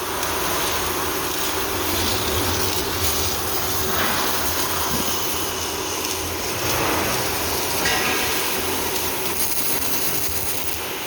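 Steady noise of a truck-body fabrication workshop during welding work, a continuous hissing din without distinct strikes.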